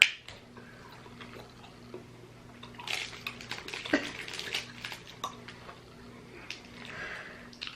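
Soft crinkling and scattered small clicks from handling pieces of hard Brazil nut toffee and their packaging, with one sharper click about four seconds in. A faint steady hum lies underneath.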